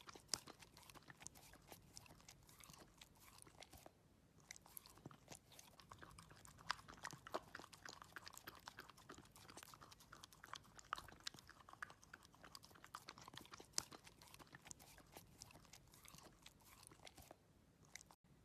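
A dachshund chewing and crunching its food, with irregular crisp crunches and a few louder bites, stopping abruptly near the end.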